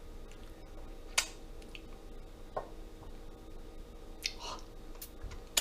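A few separate sharp clicks and taps of a utensil against the cup while poking at a hot microwaved mug cake, over a faint steady hum.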